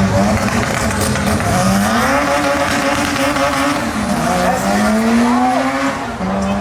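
Race car engine accelerating hard, its pitch climbing and then dropping back at each gear change, three times.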